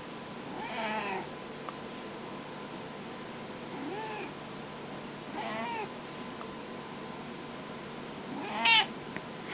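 Mynah bird mimicking a cat's meow: four short meows, each rising and falling in pitch, the last one near the end the loudest.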